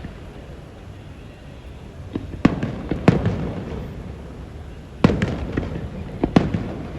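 Fireworks display: aerial shells bursting in two clusters of sharp bangs, each with a rumbling echo, about two and a half seconds in and again about five seconds in.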